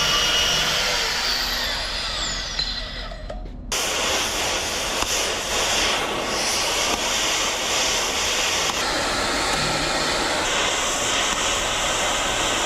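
Loud, steady hissing roar of running machinery or a power tool. It cuts off abruptly about three and a half seconds in and resumes at once.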